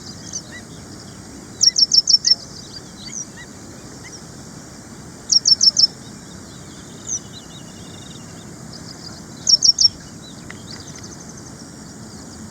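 Ashy prinia singing: a short phrase of four to six sharp, high notes, repeated three times about four seconds apart, with a few fainter chirps between phrases.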